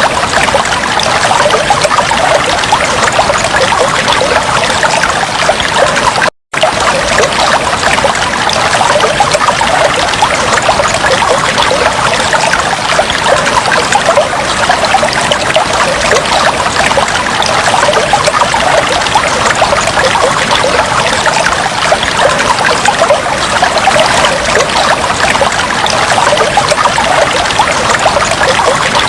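Aquarium water trickling and bubbling steadily in a dense, fizzy stream. The sound cuts out for a split second about six seconds in.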